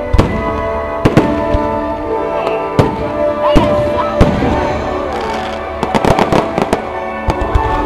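Aerial fireworks bursting one after another, a run of sharp bangs and crackles that comes thicker about six seconds in, over steady music.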